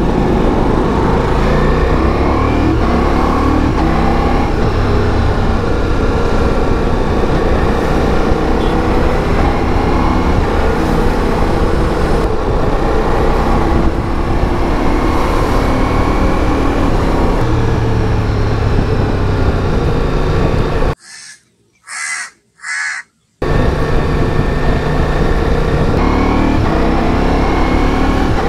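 Ducati Multistrada V4S's 1158 cc V4 engine under way, its note rising and falling as the bike speeds up and slows in traffic, over steady wind and road noise. About three-quarters through, the sound cuts out for about two seconds, broken by three short high blips.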